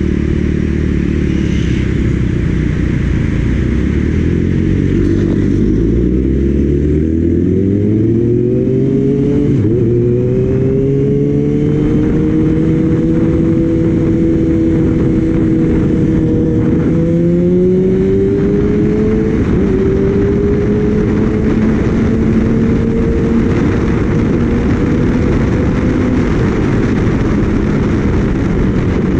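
Kawasaki Ninja ZX-6R inline-four engine under way, heard on board with heavy wind noise on the microphone. The engine note climbs steeply about a quarter of the way in, levels off, rises again and drops with a gear change past the middle, then holds steady at cruising speed.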